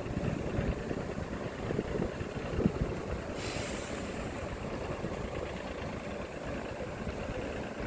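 City street traffic: a steady low rumble of engines, with a short hiss of air about three and a half seconds in.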